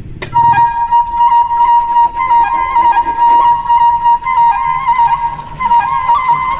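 Background music: a flute holding one long note with small trills and turns.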